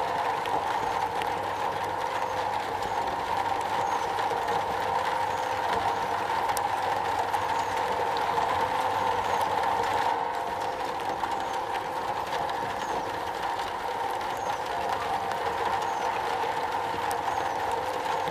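Steady rain falling on a metal roof: an even, unbroken rush with a strong midrange band and faint scattered ticks.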